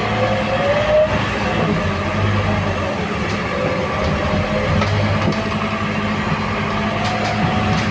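Scania K230UB city bus engine running, with a steady low drone and a higher whine that glides up and down in pitch.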